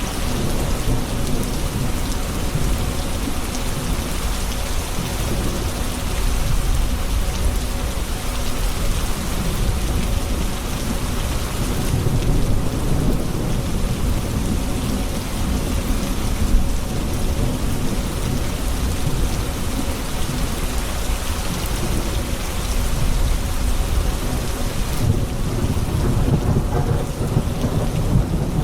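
Steady heavy rain of a thunderstorm, with low rumbles of thunder swelling now and then beneath it.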